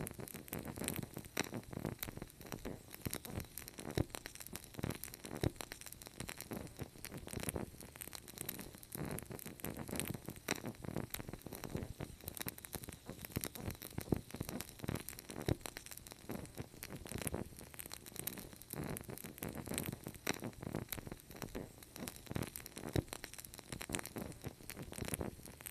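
Wood fire crackling: dense, irregular pops and snaps over a low, steady rush of burning.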